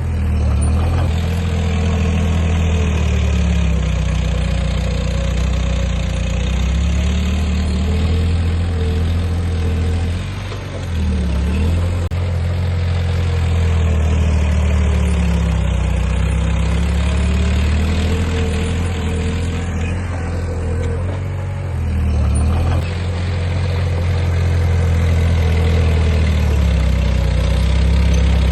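Heavy diesel engine of an earthmoving machine running under changing load, its pitch slowly rising and falling, with brief dips about ten seconds in and again about twenty-two seconds in.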